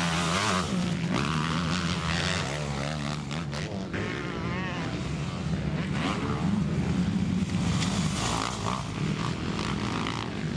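Several MX2 motocross bikes' engines running together, each revving up and down in pitch so that the whines overlap and waver.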